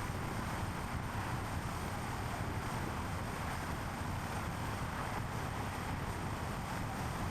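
Steady road noise from a moving car: a continuous tyre roar on the road surface over a low engine and road rumble, with wind noise, holding an even level throughout.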